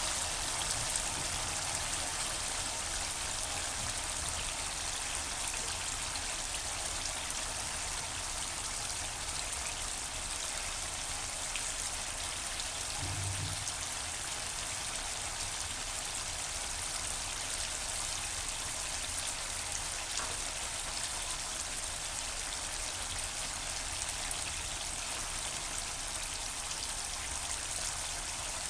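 Boiled chickpeas frying in a pan of oil and spice masala with green chillies and lemon juice, giving a steady, even sizzle.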